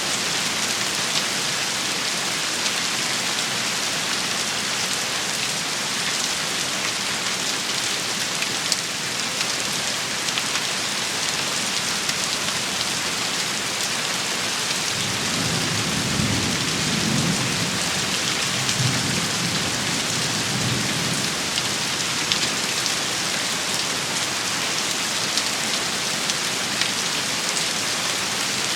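Steady heavy rain shower, a dense even hiss with scattered sharp drop patters. A low rumble of thunder swells in about halfway through and fades some six seconds later.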